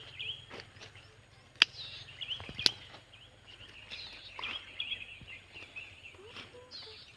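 Birds chirping outdoors, with short repeated chirps and falling calls. Two sharp clicks stand out, about a second and a half and two and a half seconds in.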